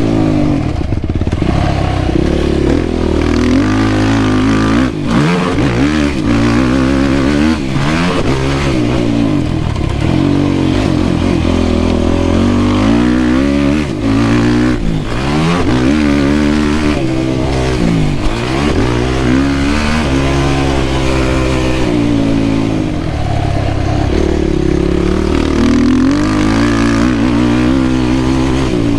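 Yamaha YFZ450R quad's single-cylinder four-stroke engine under hard riding, its pitch climbing and dropping over and over as the throttle is opened and closed.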